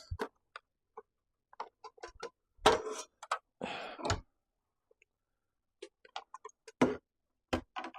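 Irregular clicks and taps, with two short louder rattles about three and four seconds in, from parts of a miter saw being handled and fitted by hand.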